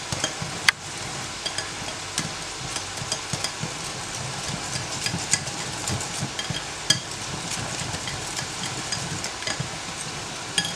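Runny egg and buttermilk mixture being stirred in a bowl: a steady wet swishing with frequent light clicks of the utensil against the bowl.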